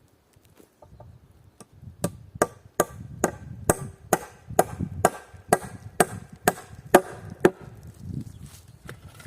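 Rapid, even blows of a hand tool striking wood, about a dozen strikes at roughly two and a half a second, each with a short ringing tone, as when a nail is hammered in.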